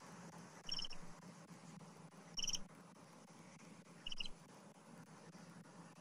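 A bird giving a short, high-pitched fluttering call three times, about a second and a half apart, over a low steady outdoor hum.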